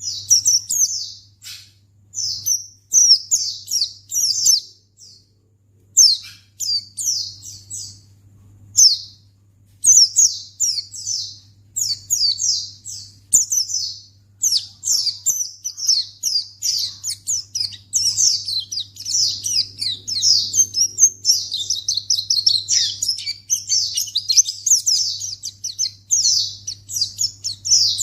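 White-eye (pleci) song: rapid, high-pitched chirping phrases, broken by short pauses in the first few seconds, then an almost continuous dense chatter from about ten seconds in. A faint steady low hum lies underneath.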